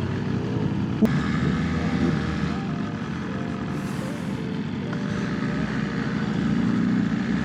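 Motorcycle engine running steadily, with a short click about a second in.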